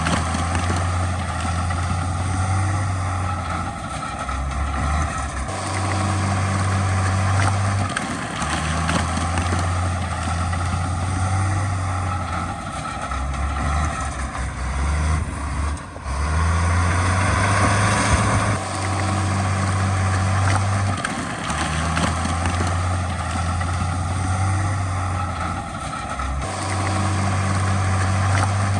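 Heavy diesel earthmoving machinery running steadily, its low engine note shifting in level every few seconds, with a louder noisy surge about 17 seconds in.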